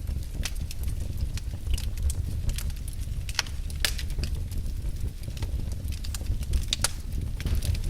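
Firewood burning in a fireplace: irregular sharp crackles and pops, several a second, over a steady low rumble of the flames.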